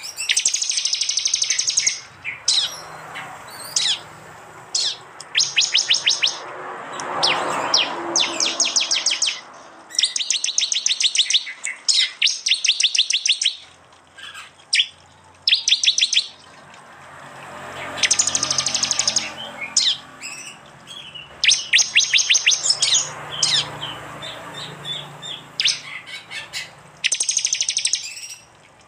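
Prinias (prenjak) calling in repeated bursts of very rapid, sharp high notes, each burst about a second or two long with short pauses between. This is the fast machine-gun 'tembakan' call.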